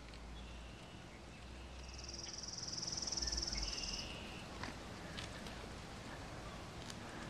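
A small bird singing one high, rapid trill of about two seconds, with a few shorter, fainter high notes around it.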